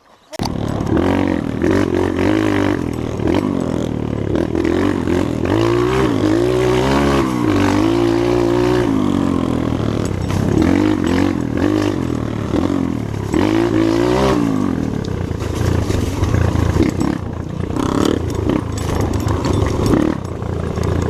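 Trail motorcycle engine running hard, its pitch repeatedly rising and falling with the throttle. The sound cuts in abruptly at the start.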